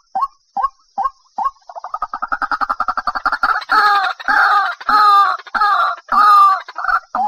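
White-breasted waterhen calling. Evenly spaced single notes, two or three a second, break into a fast chattering run about one and a half seconds in. The run swells into loud, harsh, repeated croaking phrases, roughly two a second.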